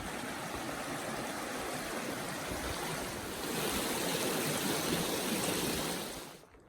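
Creek water rushing steadily, growing louder about halfway through, then dropping away abruptly near the end.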